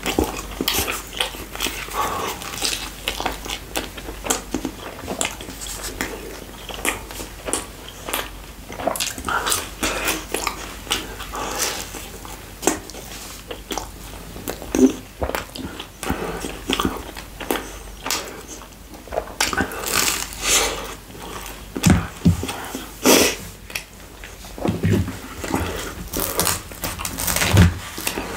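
Close-miked chewing and wet mouth sounds of a man eating chicken pizza topped with fries: a dense run of small smacks and clicks. Near the end, a few heavier knocks as he handles the pizza and pulls a new slice from it.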